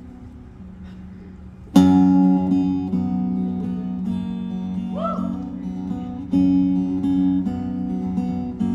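Acoustic guitar playing a song's introduction: a chord fades out, then a strong strum about two seconds in starts a steady pattern of ringing chords that change every second or so.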